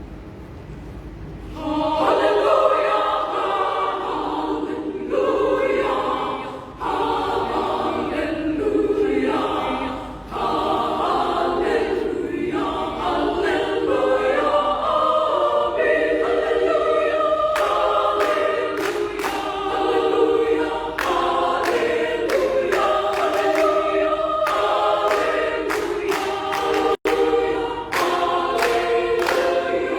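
Women's choir singing in several parts, coming in about two seconds in, with a momentary dropout in the sound near the end.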